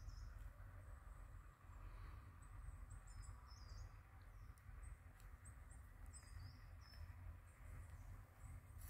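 Faint small-bird chirps, short high calls repeated at irregular intervals, over a low rumble on the microphone.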